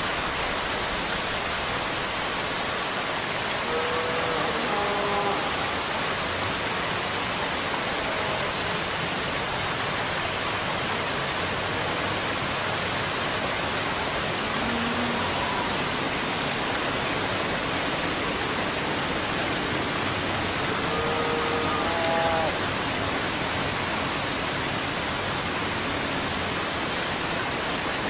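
Steady, dense rainfall hissing evenly on surfaces, a continuous rain ambience. Two brief clusters of faint pitched blips stand out over it, about four seconds in and again about three-quarters of the way through.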